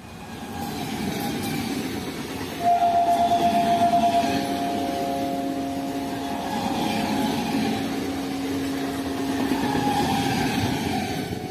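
An Indian Railways EMU local train passing at speed, its wheels and running gear giving a loud rumble that builds as it arrives. About three seconds in, a steady horn tone sounds over the rumble.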